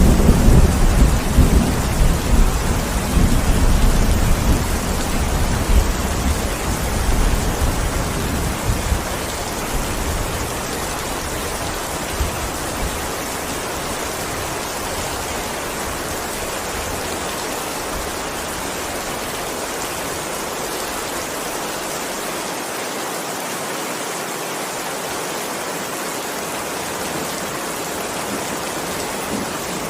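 Heavy steady rain with a long low rumble of thunder at the start that dies away over about ten seconds, leaving only the hiss of rain; another rumble begins near the end.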